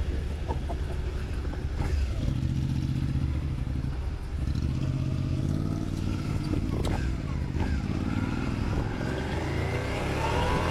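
Motorcycle engine running and pulling away, its pitch climbing from about two seconds in, with a brief dip about four seconds in before it climbs again.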